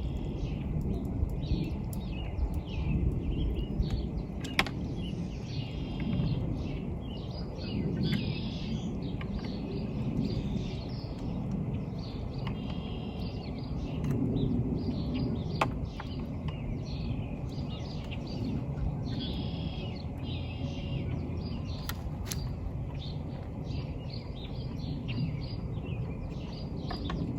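Birds singing in short repeated chirping phrases every couple of seconds over a steady low background rumble, with a few sharp clicks.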